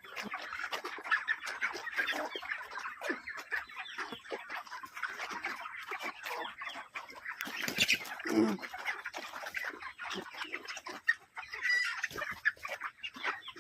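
A large flock of farm chickens clucking and calling together in a dense, continuous chatter, with one louder, lower call about eight seconds in.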